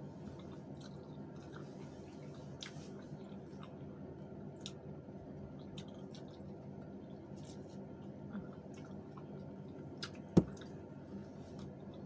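Close-up eating sounds: wet chewing and mouth smacks with scattered small clicks, over a steady low hum. One sharp knock about ten seconds in is the loudest sound.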